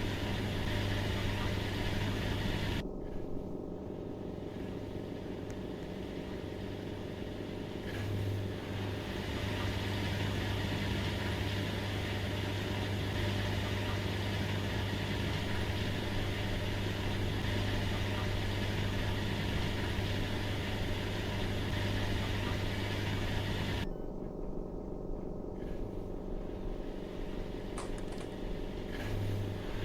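Washing machine running with a steady electric motor hum.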